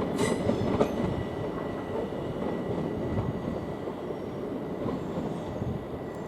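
Southern Class 377 electric multiple unit running past on departure. Its wheels click over rail joints a few times early on under a steady high whine and rumble, and the sound slowly fades as the train pulls away.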